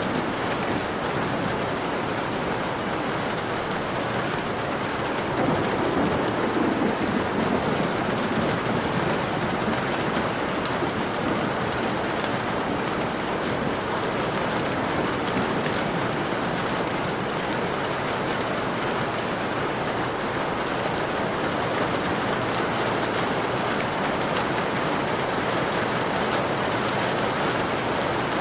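Steady heavy rain pattering on a window pane, a dense hiss full of fine drop hits. A low rumble swells briefly about six seconds in.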